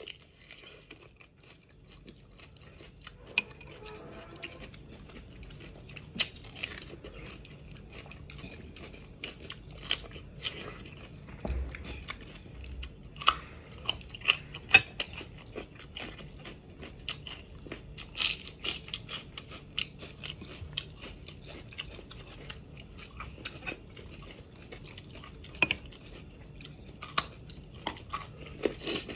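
Crunching and chewing of raw vegetables, carrot among them, with many sharp, irregular bites and crunches.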